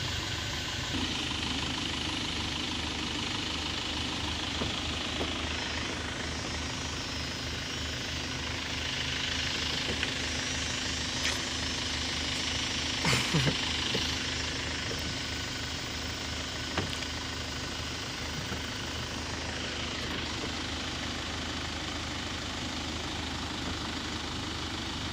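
Off-road truck engine running steadily at idle, with a few short knocks about halfway through.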